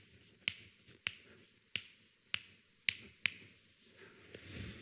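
Six sharp, light clicks, roughly one every half second, with a soft faint rustle near the end.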